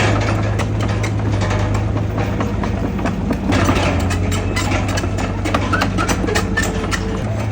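Bulldozer's heavy diesel engine running steadily with a deep hum, with many short sharp knocks and clatters over it.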